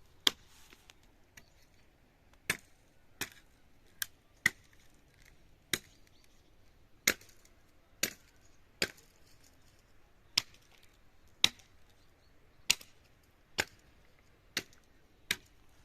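Sharp single blows of a hand tool striking wood, repeated roughly once a second at uneven intervals.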